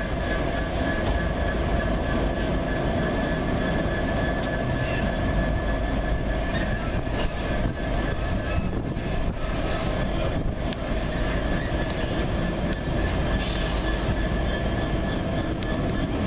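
A train running steadily, with a low rumble under a constant whine that holds one pitch.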